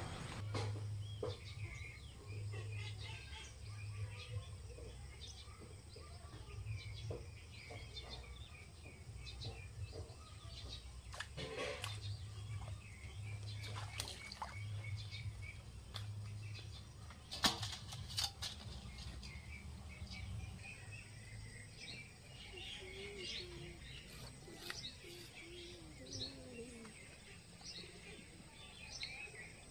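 Birds chirping and twittering on and off, over a low regular throbbing that stops about two-thirds of the way through, with a few sharp clicks.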